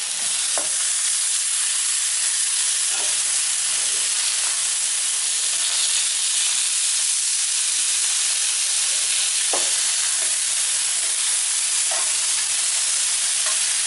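Partridges and onion frying in vegetable oil in a tagine over a flame: a steady sizzle with occasional faint crackles.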